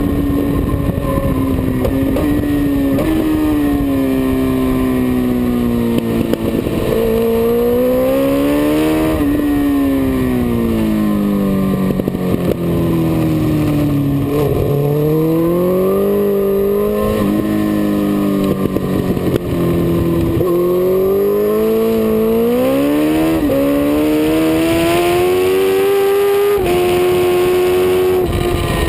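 Onboard sound of a dyno-tuned Suzuki GSX-R1000's inline-four engine at racing speed, its note climbing under acceleration and falling back for corners several times, over steady wind noise.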